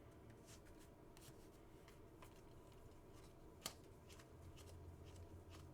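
Faint handling of trading cards: soft slides and flicks as cards are flipped through one by one, with one sharper click a little past halfway, over a low steady hum.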